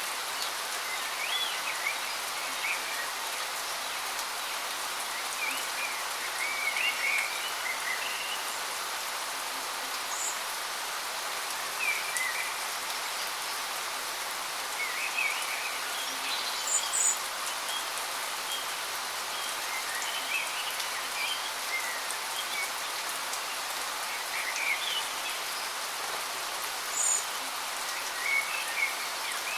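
Steady rush of a waterfall, with small birds chirping and twittering on and off over it.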